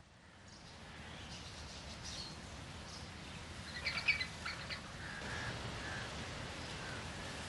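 Scattered short bird chirps and calls over a steady outdoor background hiss, with a cluster of quick high chirps about four seconds in.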